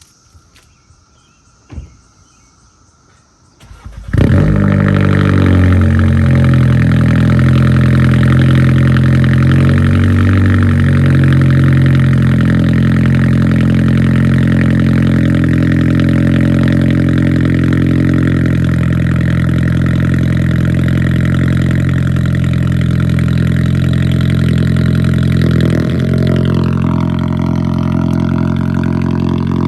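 A couple of faint clicks, then about four seconds in the tuned turbocharged engine of a Volkswagen R-Line starts up and settles into a loud, steady idle.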